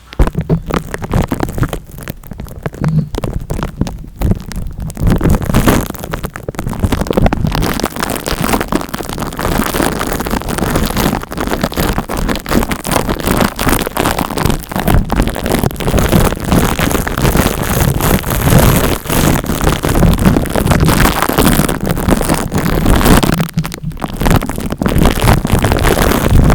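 Dense scratching and crackling rubbed right against the microphone, an ASMR scalp-massage trigger, starting abruptly and dipping briefly near the end.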